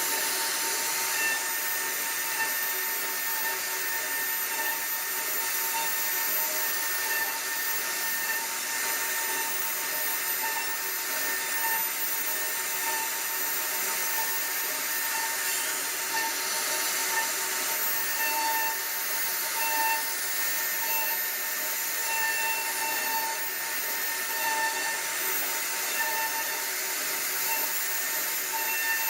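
CNC router spindle running steadily as it carves wood: a constant high whine over a hiss of cutting.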